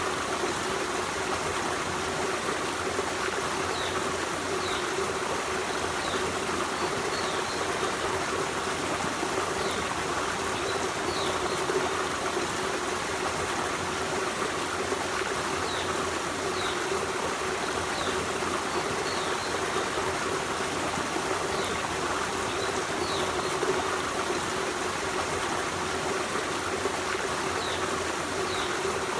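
Forest stream running steadily, an even rush and trickle of water with no pauses. Faint short high chirps sound every few seconds above the water.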